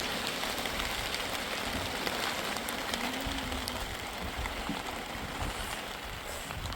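Steady hiss of rain falling, with wind rumbling on the microphone.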